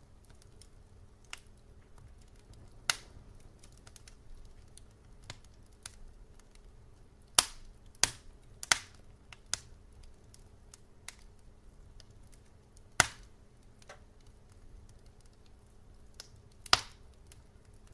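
Firewood burning in a wood fireplace, crackling with irregular sharp pops over a faint steady low background. The loudest pops come in a cluster about seven to nine seconds in, and there are single loud ones around three, thirteen and seventeen seconds.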